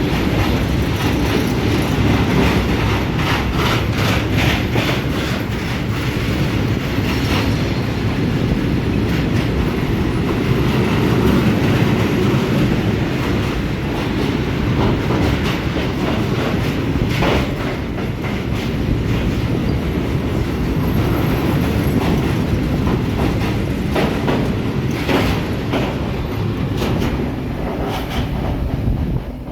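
A train running along the track close by, a steady rumble with its wheels clicking over the rail joints, the clicks coming in quick runs.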